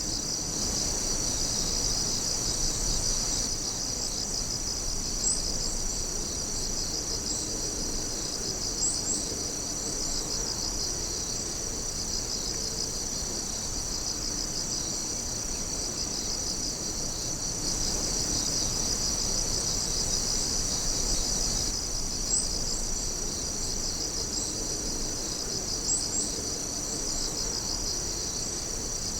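Chorus of night insects, a steady dense high-pitched trilling with a fine pulsing rhythm. A few short, higher chirps stand out over it now and then.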